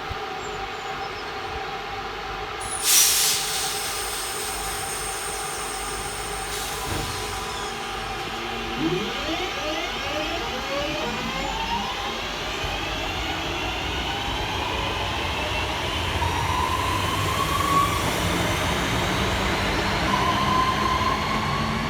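Northern Class 323 electric multiple unit pulling away from the platform, its traction motors whining and rising in pitch in repeated steps as it gathers speed. There is a short burst of hiss about three seconds in.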